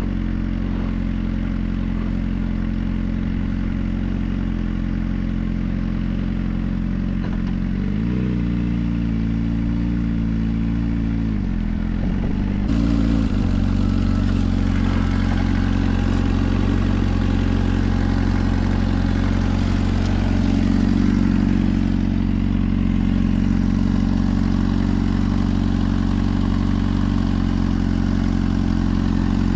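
Suzuki GSR 400's inline-four engine running through a Yoshimura exhaust at steady riding revs. About eight seconds in the pitch rises, then drops again around twelve seconds, and from there the engine runs steady and a little louder.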